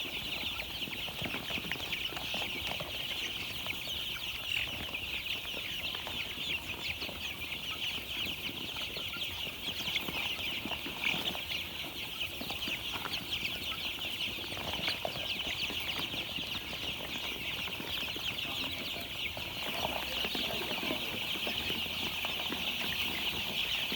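A large group of young chicks peeping continuously, with many high chirps overlapping into a steady chorus.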